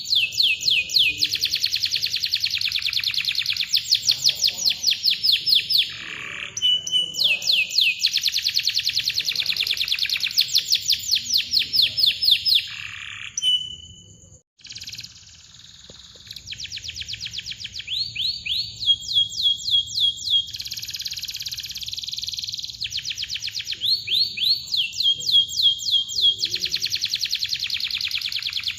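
Domestic canary singing a fast, dense song: long rolls of rapid repeated descending chirps, broken now and then by short steady whistled notes. The song drops out briefly about halfway through, then resumes.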